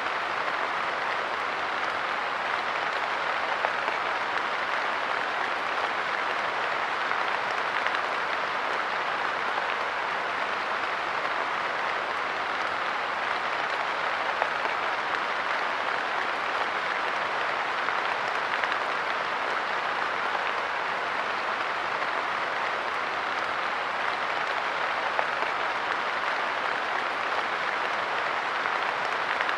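Light rain pattering steadily on a park bench, a dense even hiss of drops with occasional slightly louder drips.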